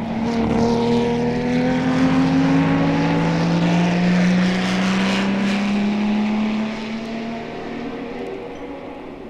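Racing car engines at speed on the 1964 Le Mans circuit: a loud engine note whose pitch climbs steadily as a car accelerates, then fading away after about seven seconds.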